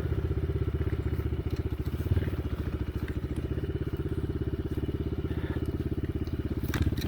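Dirt bike engine running at low, steady revs, its firing pulses even and rapid throughout.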